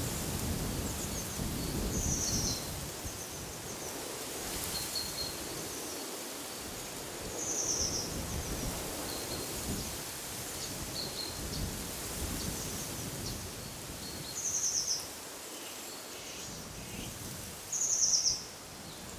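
Wind in trees, with a low gusting rumble, under a bird repeating a short, high, buzzy call about every three to four seconds, four times, with fainter chirps between.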